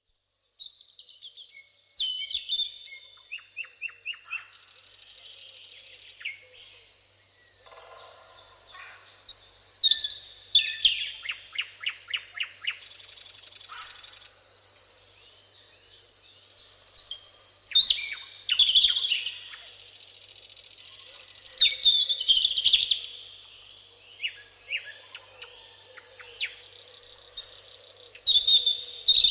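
Several songbirds singing and calling in a summer meadow, short varied phrases and trills overlapping one another over a steady high insect drone. Short high buzzing bursts come back about every seven seconds.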